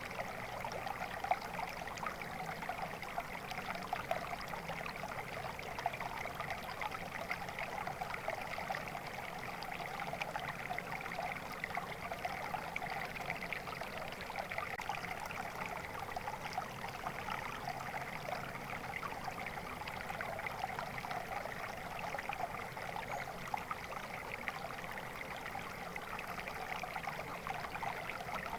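Water flowing in a stream, a steady babbling and trickling with no pauses.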